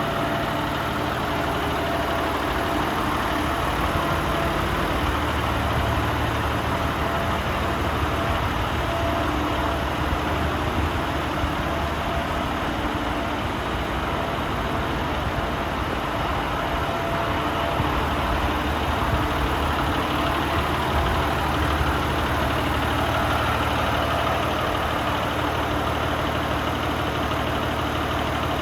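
Volvo FM 450 tractor unit's 450 bhp Euro 6 diesel engine idling steadily.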